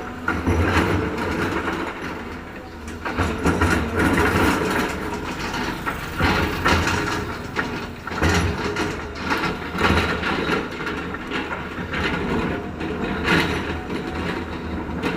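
Heavy construction machinery working: a diesel engine running steadily, with repeated clanks and knocks from the machine and its load.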